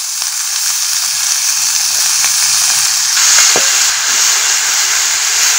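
Diced raw papaya frying in hot mustard oil in a steel kadhai: a steady sizzle that grows louder about three seconds in, with a few light scrapes of a steel spatula stirring in the pan.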